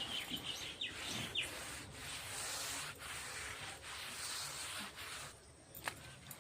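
A hand smearing and rubbing wet plaster over a clay chulha, a rough rubbing scrape that keeps going with small swells.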